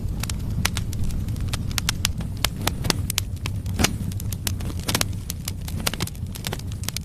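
Firewood burning in a fireplace: frequent sharp, irregular crackles and pops over a steady low rumble of the flames.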